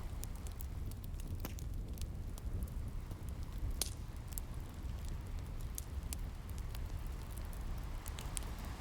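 Wood fire crackling with scattered sharp pops, over a low steady rush of ocean waves.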